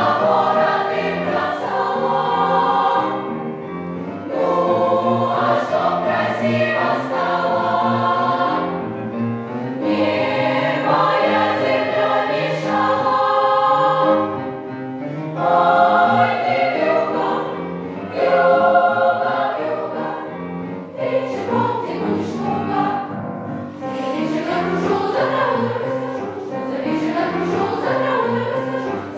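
A choir singing in phrases a few seconds long, with short breaths or dips between them.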